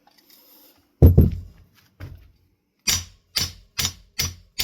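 Knocks on a ceiling fan's metal motor housing. A heavy thud comes about a second in and a lighter one a second later, then a steady run of sharp knocks at about two and a half a second.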